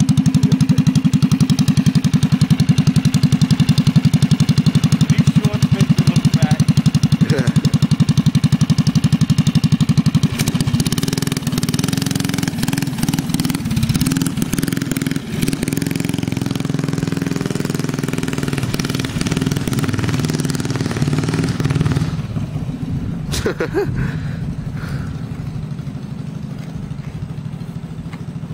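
Mini bike's small Briggs & Stratton engine running, with a fast, even beat for about ten seconds, then running rougher and less evenly. It grows gradually fainter toward the end, with a sharp click near the end.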